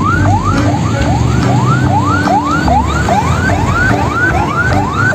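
Siren sounding in fast, repeated rising sweeps, about two and a half a second, over a low background beat.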